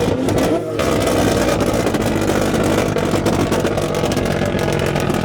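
Car engine revved hard and held at high revs, briefly dropping just under a second in before climbing back.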